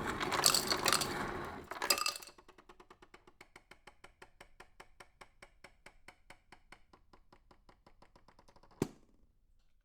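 Edited-in transition sound effect: a short dense burst of sound, then a rapid even ticking about six a second that fades away, ending in one sharp click.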